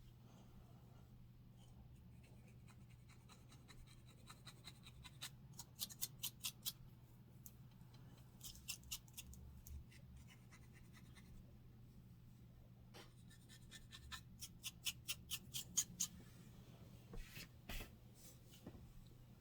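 Dandruff being scratched from a scalp in quick runs of short, dry scraping strokes, about five a second, with pauses between the runs. A faint steady low hum runs underneath.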